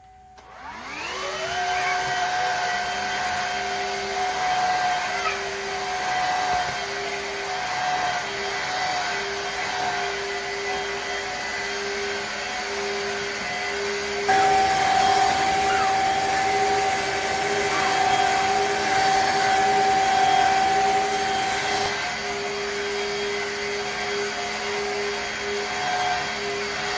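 Shark HydroVac MessMaster wet-dry vacuum mop starting up with a rising whine, then running with a steady motor whine. About 14 seconds in the whine steps up higher and louder for about eight seconds, then drops back to its earlier pitch.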